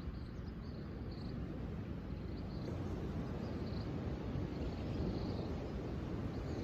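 Outdoor nature ambience: a low, steady rumble that swells slowly, with faint short high chirps repeating over it.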